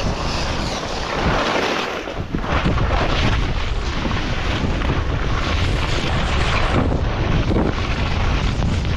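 Loud wind buffeting the microphone of a skier's camera while skiing fast through a blizzard, mixed with the rushing hiss of skis through deep powder; it grows louder about two and a half seconds in.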